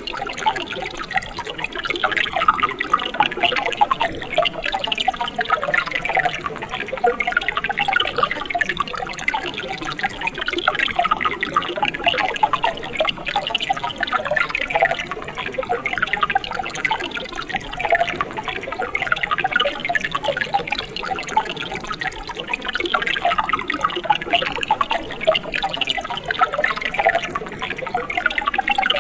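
Mountain stream water running and splashing over rocks, a steady bubbling babble with many small splashes.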